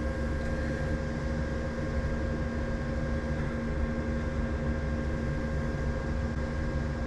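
Steady mechanical hum of a small motor or fan, with a few fixed tones over a low rumble.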